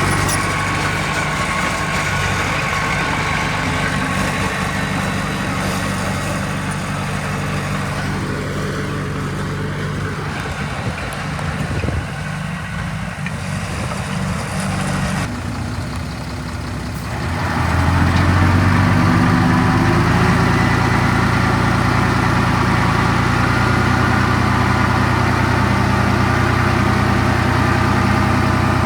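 Heavy diesel engine of an earthmoving machine running, quieter through the middle, then revving up a little over halfway in and holding at a higher, louder pitch.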